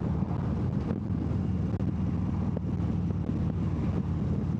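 2014 Harley-Davidson Dyna Wide Glide's 103 cubic inch (1690 cc) V-twin running steadily under way, with wind on the microphone.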